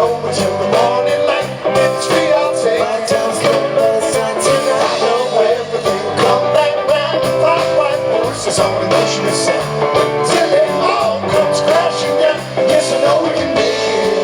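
Live rock band playing an instrumental stretch, amplified over a festival sound system.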